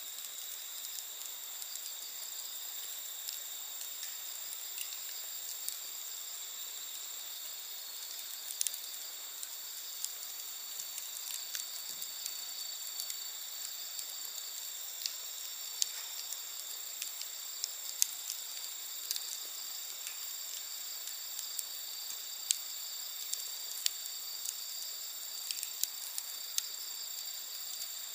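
Wood campfire crackling with irregular sharp pops and snaps, a few louder ones, over a steady high chorus of crickets or other insects chirping.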